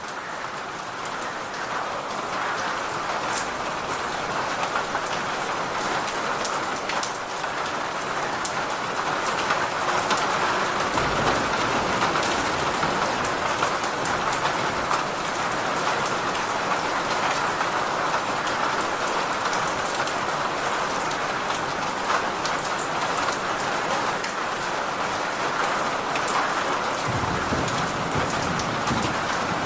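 Steady heavy rain pattering on surfaces, swelling louder over the first several seconds, with low rumbles of thunder about eleven seconds in and again near the end.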